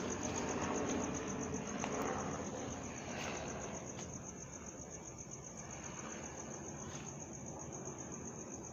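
Cricket trilling steadily, a fast-pulsed high tone, over the broad rumble of a helicopter that fades away over the first few seconds.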